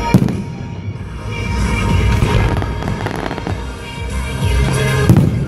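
Fireworks exploding over music: a sharp bang just after the start, a stretch of crackling in the middle, and another loud bang near the end.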